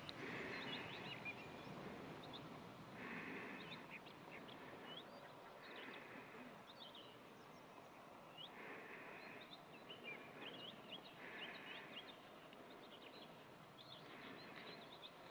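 Faint wild birds calling: scattered short chirps, with a harsh call repeating about every three seconds.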